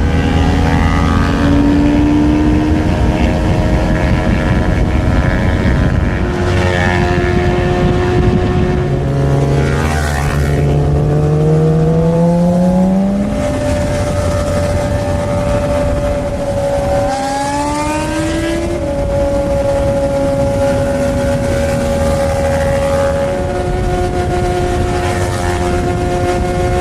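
Kawasaki Ninja 400's parallel-twin engine pulling hard. Its pitch climbs and drops back at each gear change, about twice, then holds steady at speed.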